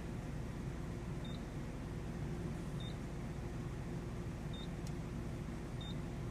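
Mitsubishi 3000GT VR4's twin-turbo 3.0-litre V6 idling steadily, with four short high beeps at uneven intervals of about a second and a half as climate-control mode buttons are pressed.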